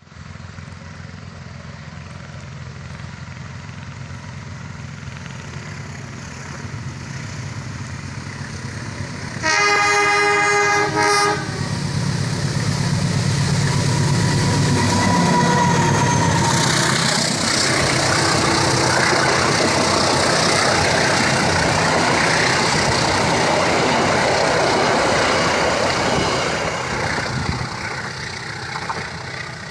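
Diesel-electric locomotive of an Indonesian passenger train approaching with a low engine drone, then sounding its horn in a blast of about two seconds roughly ten seconds in. The train then passes close by, wheels running loudly on the rails, and the noise fades as it moves away near the end.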